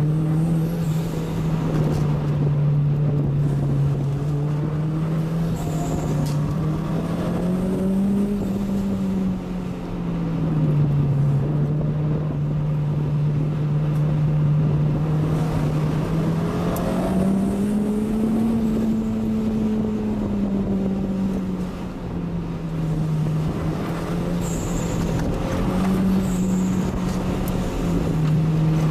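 Inside the cabin of a 1993 Toyota MR2 MKII: its mid-mounted 3S-GTE 2.0 L turbo four-cylinder runs steadily under road noise, the pitch rising and falling gently several times as the revs change through a run of downhill bends. A few brief high chirps come through near the start and twice near the end.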